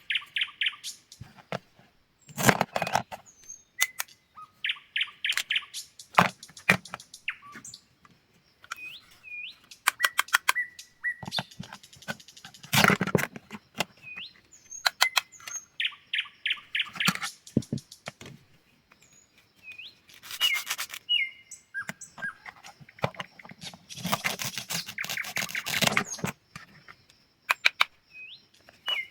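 A small bird chirping again and again in short hooked notes, between runs of rapid clicks and bursts of scratchy crunching noise about a second long, the longest of them from about 24 to 26 seconds in.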